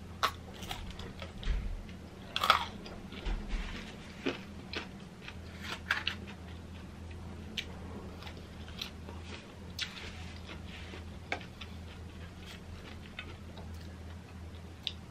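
Close-miked mouth sounds of a person chewing and biting homemade potato fries: irregular wet clicks and smacks, the loudest about two and a half seconds in.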